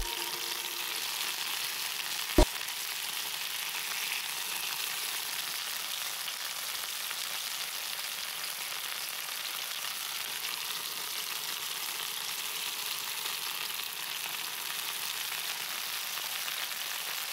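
Food frying in a pan, a steady sizzle, with one short thump about two and a half seconds in.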